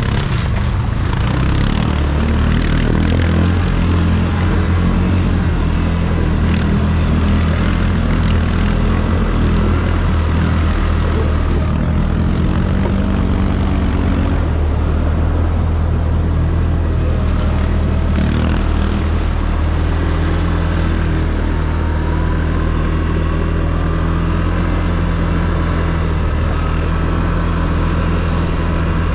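ATV engine running steadily under way, a low even engine note with a faint whine that drifts up and down in pitch.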